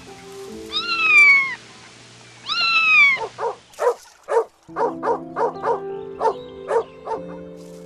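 A cat meows twice, each a long call falling in pitch, then from about three seconds in a dog barks rapidly, about three short barks a second, over soft background music.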